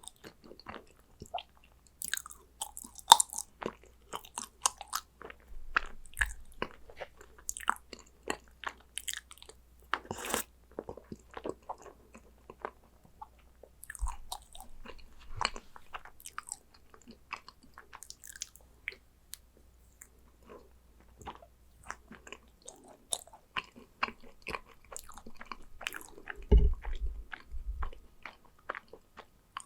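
Close-miked biting and chewing of yakgwa, Korean honey cookies, heard as many irregular short wet clicks. A dull low bump comes near the end.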